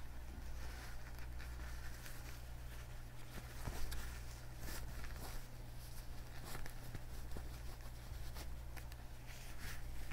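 Leather gloves on hands rubbing and flexing: soft irregular creaks and rustles with scattered crisp clicks, the sharpest about four seconds in, over a steady low hum.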